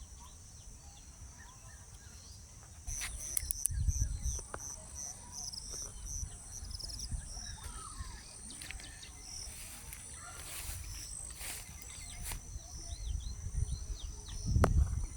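Grassland field ambience: a steady high-pitched insect buzz with scattered bird chirps, and a quick run of about eight short high chirps about three seconds in. Wind rumbles on the microphone, coming and going.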